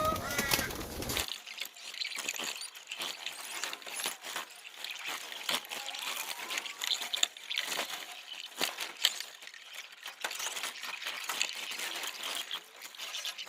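Young pigeons being handled: uneven rustling with scattered light clicks and crackles.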